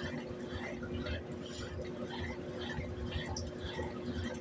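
Brastemp top-loading washing machine running, with irregular splashing and dripping of water inside the drum over a steady low motor hum.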